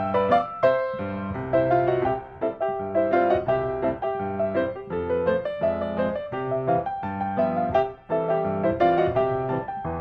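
Background piano music: a run of quick notes with a brief pause about eight seconds in.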